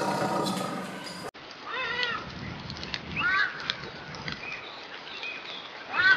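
An animal's drawn-out call cuts off abruptly just over a second in. It is followed by several short calls that rise and fall in pitch, a second or more apart, with the loudest near the end.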